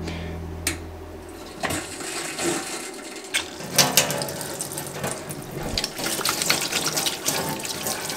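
Water from a kitchen mixer tap running into a stainless steel sink basin and splashing on the metal, starting about one and a half seconds in. Near the end, hands are rinsed under the stream.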